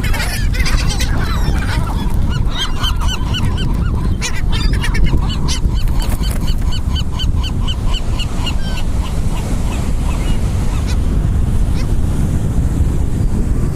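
A flock of seagulls calling over one another in many short, repeated squawks that thin out after about nine seconds, over a steady rumble of wind and surf.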